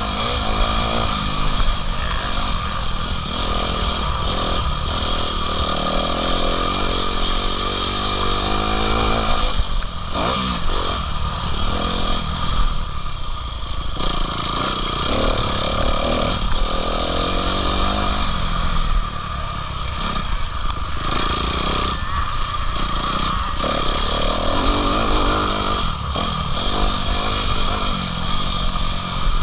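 Motocross bike engine revving up and down repeatedly, its pitch rising and falling again and again.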